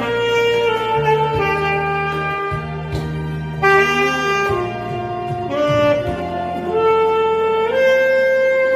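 Saxophone playing a slow melody in long held notes over a backing accompaniment.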